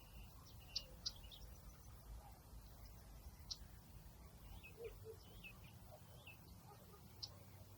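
Faint bird chirps: short, high notes scattered a second or more apart, over a low steady rumble of outdoor background noise.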